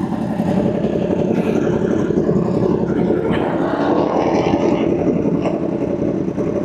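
Kawasaki ZX10R sportbike's inline-four engine running steadily, with a brief rise in pitch about three to four seconds in.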